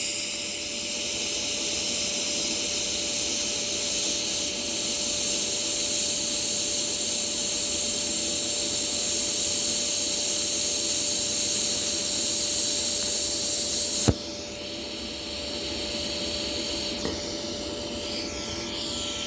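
TIG welding arc from a Toolion MIG-180 Pro making a fusion weld, a steady hiss that cuts off with a click about 14 seconds in. A quieter steady hum from the machine carries on after the arc stops.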